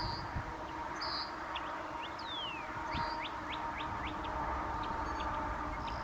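Small birds chirping: short high chirps, a falling whistle about two seconds in and a quick run of rising chirps around three seconds in, over a faint steady tone and background hiss.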